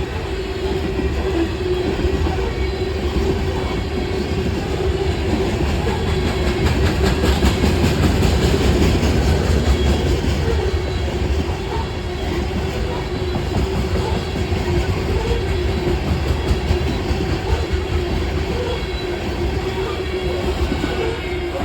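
Loaded coal train's hopper cars rolling past close by, a continuous rumble and clatter of wheels on rail, loudest about a third of the way in. A steady whine runs through it.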